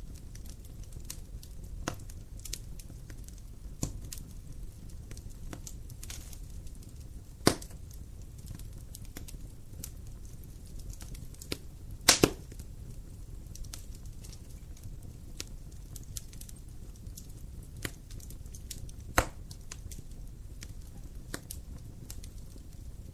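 Wood fire crackling in a fireplace: a steady low rumble of burning with scattered sharp pops and snaps, the loudest three at about a third of the way in, halfway, and late on.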